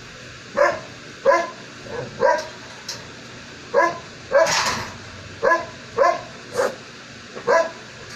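A dog barking repeatedly: a string of short barks, roughly one a second, the loudest and longest about midway.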